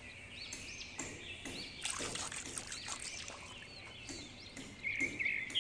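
Birds chirping with repeated short calls, over a steady high background, and a short rush of noise about two seconds in.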